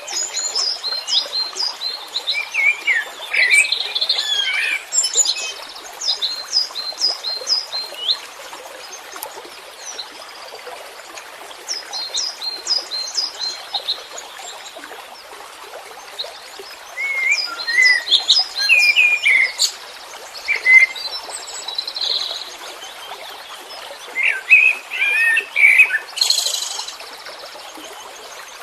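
Songbird singing in bursts of quick, sharp chirps and short whistled notes, with pauses of a few seconds between phrases, over a steady background hiss.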